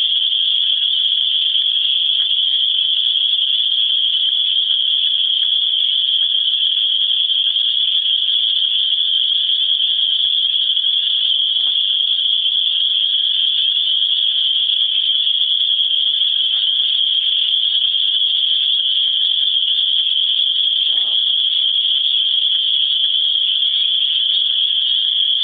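Loud chorus of cicadas: one steady, unbroken high-pitched buzz, loud enough to drown out a speaking voice.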